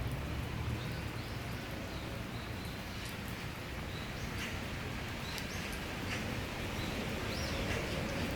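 Steady summer rain shower, with sharp drops ticking now and then and a bird chirping briefly several times in the background.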